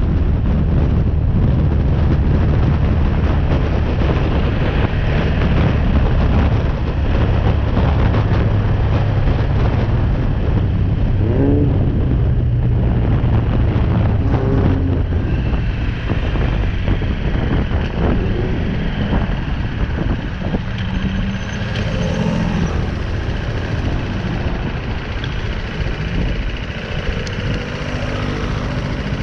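BMW G310R's single-cylinder engine running while riding, with steady wind noise over the action camera's microphone. About halfway through, the engine sound eases off a little.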